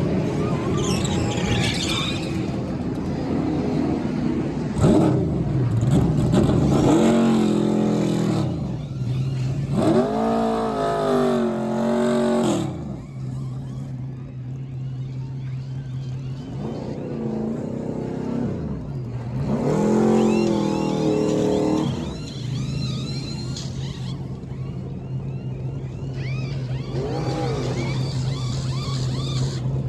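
NASCAR Truck Series race trucks' V8 engines passing at speed, several times over. Each engine note rises as it approaches, then drops away as it goes by.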